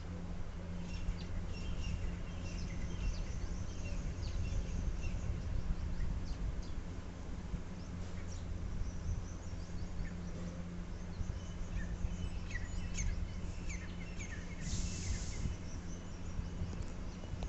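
Sparrows chirping in short scattered calls, busier in the second half, over a steady low rumble. A short hissing burst comes near the end.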